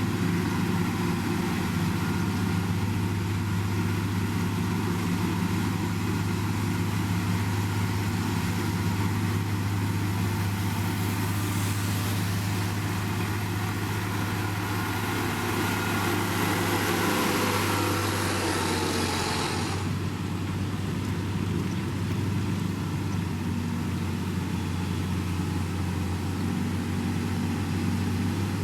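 Diesel engine of heavy road-building machinery running steadily at constant speed. From about ten seconds in, a hissing, rushing noise builds up over it and cuts off suddenly near twenty seconds.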